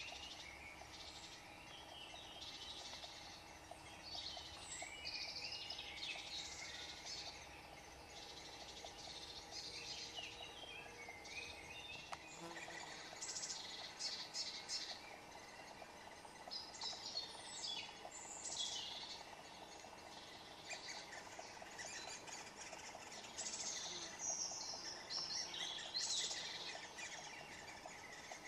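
Birds chirping and calling: many short high notes, some gliding, some in quick clicky runs.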